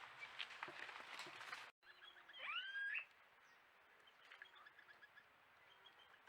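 A bird calling a loud, sharply rising whistle that levels off, about two and a half seconds in, followed by faint repeated chirps over a quiet forest background.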